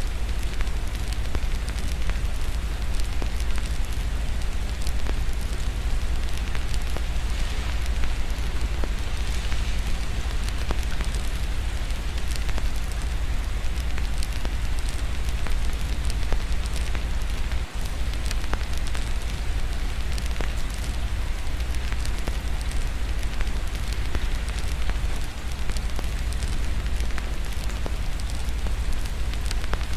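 Fireplace crackling with many small, irregular pops over a steady hiss of rain and a continuous low rumble. A momentary dropout comes a little past halfway.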